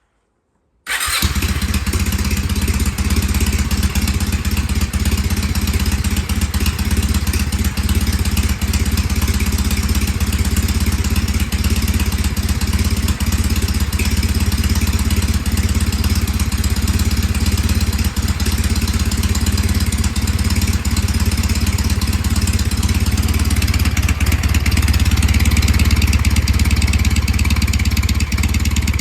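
Kawasaki W650 air-cooled parallel-twin motorcycle engine, cold, catching suddenly about a second in and then idling steadily through its mufflers. The exhaust has an irregular, lopsided beat, like an uneven-firing engine, as it does when cold; it gets a little louder near the end.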